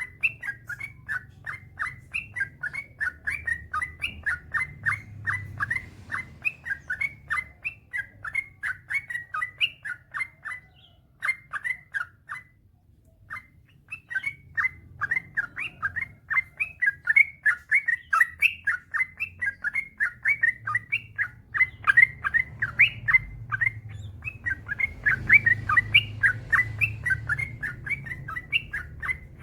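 Yellow-vented bulbul singing long, rapid runs of short chirping notes, several a second, with a brief pause about twelve seconds in.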